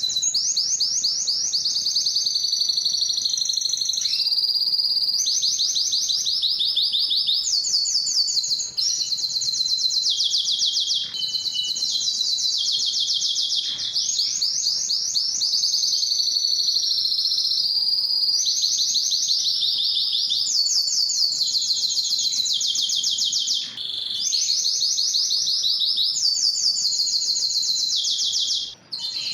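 Male Spanish timbrado canary singing continuously: a long song of rapid trills and rolls, each phrase a fast run of repeated notes, switching to a new phrase every second or two with only brief breaks.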